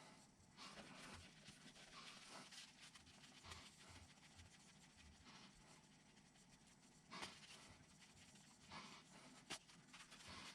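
Faint clicks and rustling of small parts and a hand tool being handled, with a few sharper ticks near the end.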